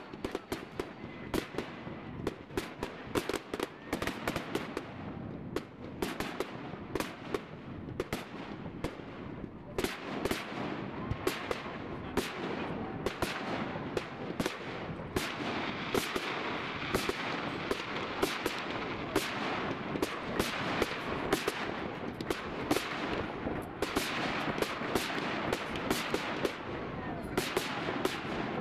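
Aerial fireworks going off in rapid succession: sharp bangs several times a second over a constant crackle. The barrage grows denser and fuller from about ten seconds in.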